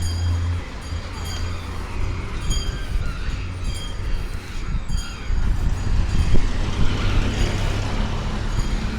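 City street traffic: vehicle engines running and passing, with a heavy low engine rumble that eases about half a second in.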